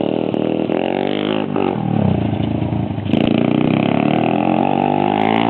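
Motorcycle engine running and revving: it eases off and drops in pitch about a second and a half in, then picks up, louder and higher, from about three seconds in.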